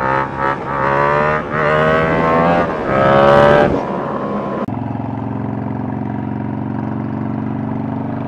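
Motorcycle engine accelerating hard, its pitch climbing in three successive rising pulls. About halfway through it changes abruptly to a steady engine note at a constant pitch.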